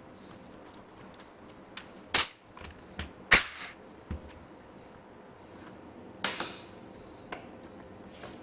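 A handful of separate sharp metallic clicks and clanks from tools and parts being handled during work on a motorcycle's front brake caliper, the loudest about a third of the way in and another pair a little after the middle.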